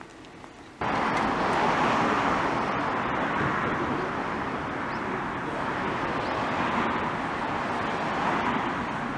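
Steady rushing noise of a passing vehicle, starting suddenly about a second in and holding at an even level.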